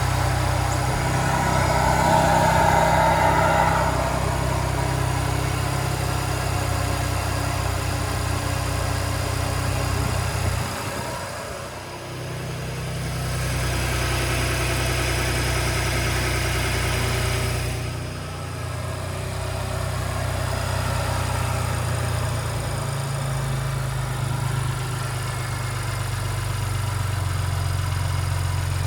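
2017 Ford Raptor's 3.5 L twin-turbo V6 idling just after a cold start, the engine posted for its cold-start rattle. It sounds rougher and noisier for the first four seconds, then settles to a steady idle.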